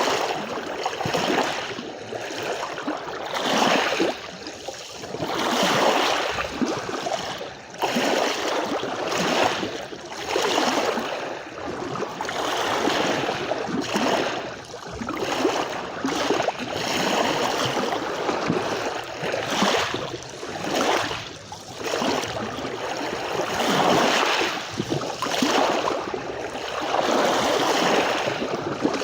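Small sea waves breaking and washing on a beach, the wash swelling and falling about every two seconds.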